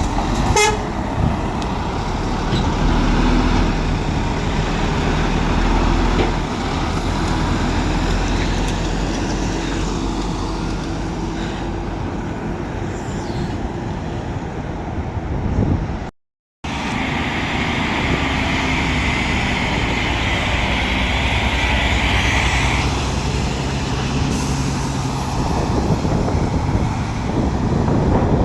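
Diesel engines of heavy lorries running at low revs, a steady low drone. A hiss joins in for several seconds after a brief dropout just past halfway, typical of lorry air brakes or air release.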